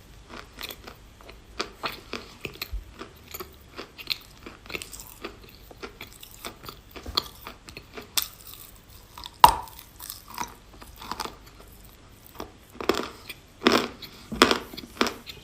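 A person biting and chewing chalk: irregular dry crunches, with one sharp loud bite about nine and a half seconds in and a run of louder crunches near the end.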